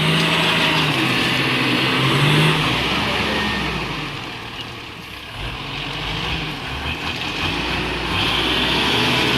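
Truck engine revving under load while a pickup tows a big truck stuck in mud. The engine climbs around two seconds in, eases off and quietens near the middle, then builds again.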